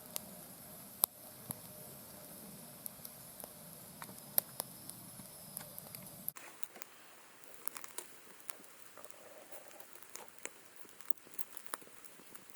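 Scattered, irregular crackles and pops from beef liver grilling over a wood fire in a fire pit. A low rumble underneath drops out abruptly about six seconds in.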